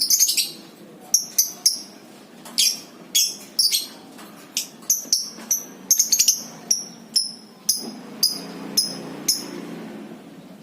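Lovebirds giving short, sharp, high-pitched chirps, each dropping slightly in pitch. The chirps come singly and in quick clusters at irregular spacing, and stop near the end.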